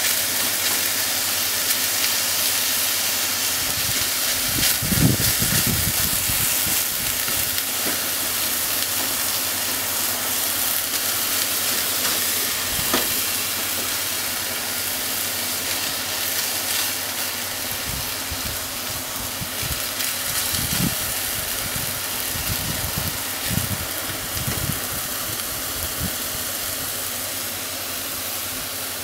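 Minced chicken sizzling steadily in a frying pan as it is stir-fried with chopsticks, with a few low thumps from the stirring, the loudest about five seconds in.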